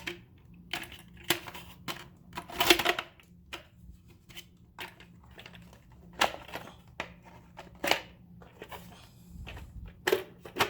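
Plastic humidifier housing parts being handled and pressed into place: irregular clicks, knocks and rattles, with a louder cluster about two and a half seconds in.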